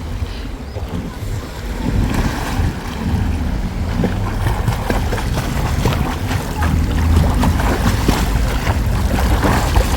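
Wind rumbling on the microphone over breaking waves and splashing water, with many short splashes from about two seconds in.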